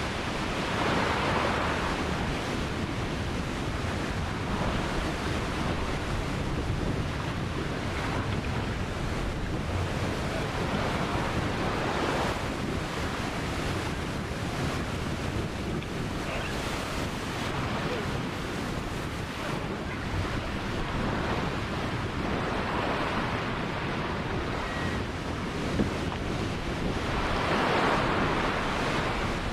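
Ocean surf: a continuous wash of waves breaking on the shore, swelling louder as waves break about a second in, around twelve seconds and again near the end.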